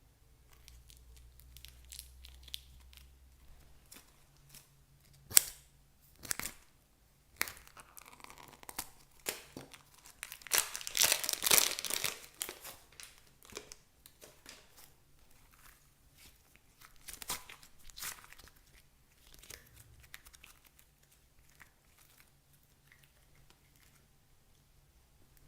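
Crinkling and tearing handling noises: a string of clicks and rustles, densest and loudest about halfway through.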